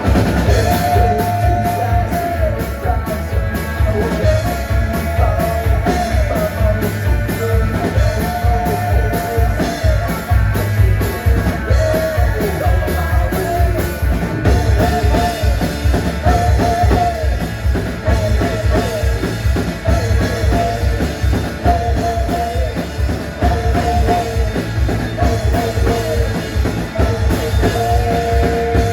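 Live rock band playing: a drum kit keeps a steady driving beat under a singing voice.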